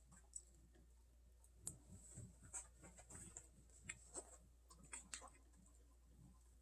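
Near silence: room tone with a steady low hum and a few faint, scattered clicks and taps.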